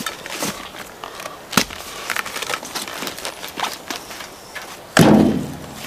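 Footsteps and light knocks of wood being handled, with a sharp knock near the middle and one heavy thud that rings briefly about five seconds in.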